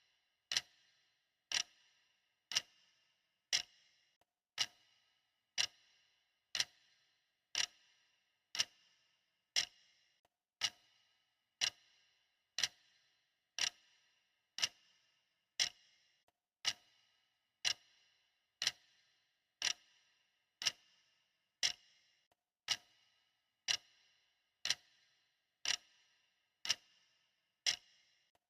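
Clock ticking steadily, about once a second, each tick a sharp click with a short, bright ring.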